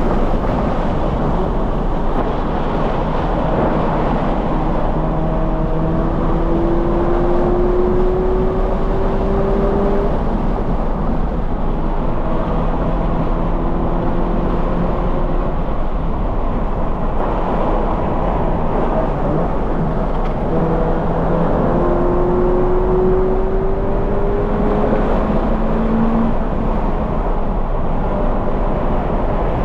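2020 Toyota 86's 2.0-litre flat-four engine through a Corsa cat-back exhaust, running hard at track speed over heavy wind and tyre noise. Its note climbs steadily under acceleration twice, about five seconds in and again about twenty seconds in, dropping back in between.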